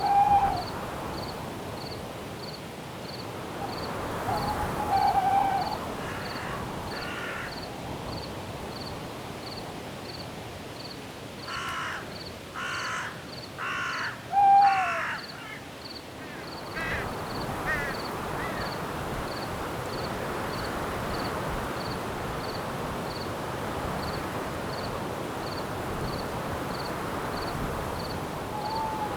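Night forest ambience: crickets chirping steadily about twice a second over a soft wash of wind in the branches. Short owl hoots come a few times, and a series of harsh bird calls, four in a row, sounds near the middle.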